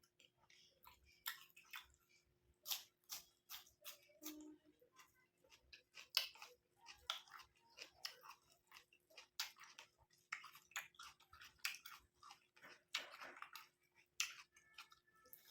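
Close-miked mouth sounds of eating curry with white rice: irregular chewing and lip smacks, several quick clicks a second, with a faint steady hum underneath.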